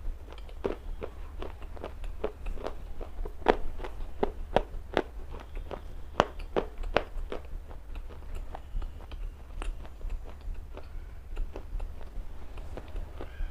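Someone biting and chewing pieces of wetted black slate stone: a run of sharp, irregular crunching cracks, closely spaced in the first half and sparser toward the end.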